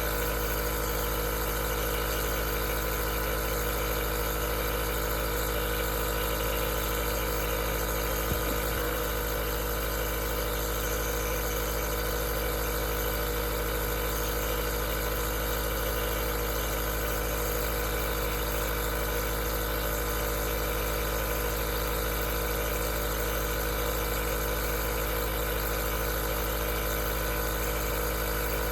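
Aerosol nebulizer's compressor running steadily, a constant motor hum with hiss and no change in pitch or level, with one faint tick about eight seconds in.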